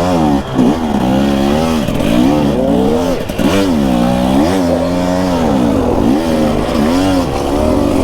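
Dirt bike engine being ridden on a trail, revving up and dropping back again and again as the throttle is worked, its pitch rising and falling every second or so.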